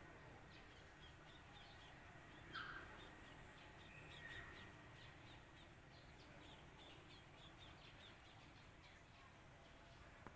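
Faint bird calls: a rapid string of short, high chirps, with a louder call about two and a half seconds in and another about four seconds in.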